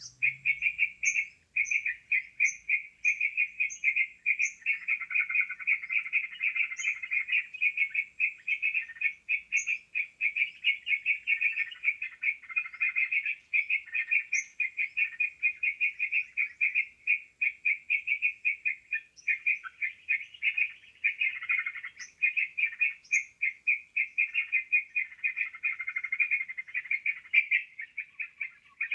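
Bird-lure recording of yellow-vented bulbuls (trucukan): a dense, unbroken chatter of rapid calls, with short high chirps scattered over it.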